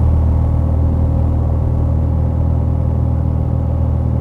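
Piper Dakota's six-cylinder Lycoming O-540 engine and propeller at full takeoff power, a steady low drone.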